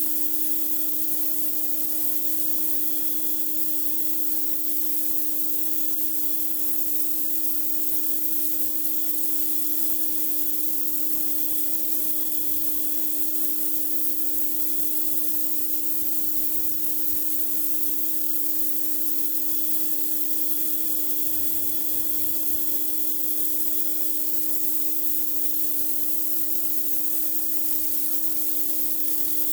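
Pressure washer spraying high-pressure water: a steady hiss over a steady motor hum, unbroken throughout.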